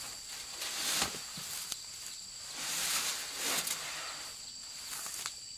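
Dry rice stalks rustling in several swells as they are handled in the field, over a steady high-pitched insect drone.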